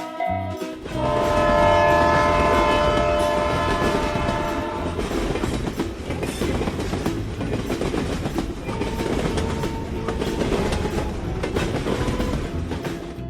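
A train horn sounding a held chord for about four seconds, starting about a second in, over the rumble and clickety-clack of a train running on the rails, which goes on after the horn stops.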